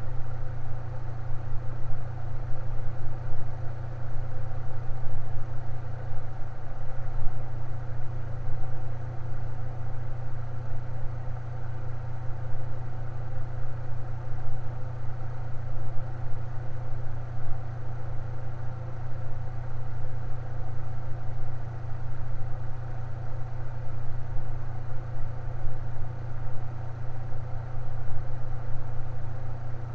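Electric fan running steadily: a constant low motor hum with fainter higher tones and a soft rush of air, unchanging throughout.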